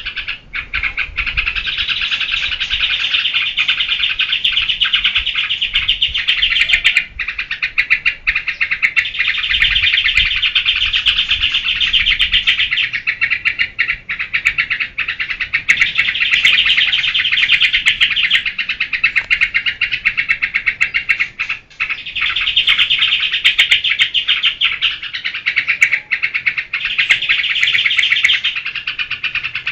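Trucukan (yellow-vented bulbul) singing in its fast 'geberan' style: long runs of rapid, high repeated notes lasting a few seconds each, with short pauses between the runs.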